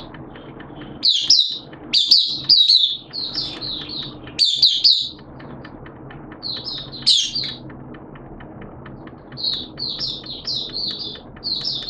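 Caged songbird singing in bursts of quick, high, chirping notes, with short pauses between phrases.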